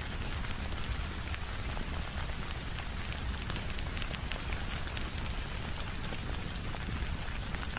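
Layered ambience of steady rain on a window and a crackling wood fire: an even hiss over a deep low rumble, scattered with many sharp little crackles and ticks.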